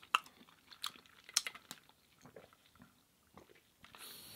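Close-miked chewing: wet mouth clicks and crunchy bites of food, with a few sharp ones in the first two seconds and sparser ones after. A brief hiss comes near the end.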